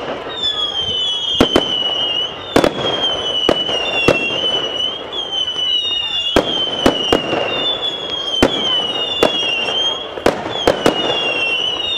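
Fireworks display: sharp bangs and cracks at irregular intervals, several a second at times, over a high whistling tone that dips slightly in pitch and repeats about once a second.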